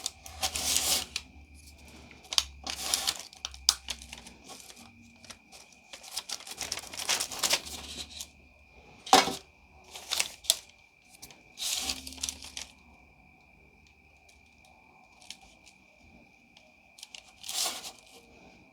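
Scalpel blade cutting and scraping through hard, dried fondant in short, irregular scratchy strokes with pauses between them.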